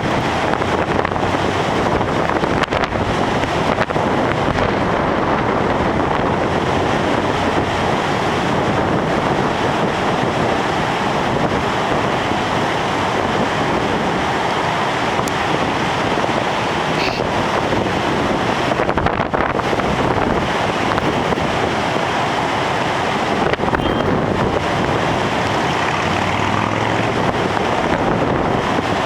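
Strong storm wind buffeting the microphone over heavy ocean surf, a loud, steady rush of noise that does not let up.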